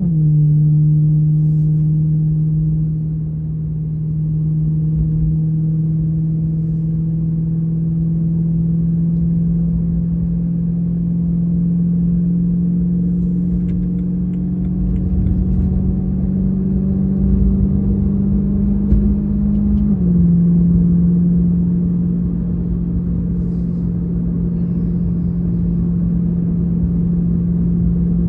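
BMW E92 M3's V8 running through a valved Valvetronic exhaust under way, a steady drone with a low rumble. Its pitch steps down right at the start, climbs slowly as the car gathers speed, then steps down again about twenty seconds in at an upshift.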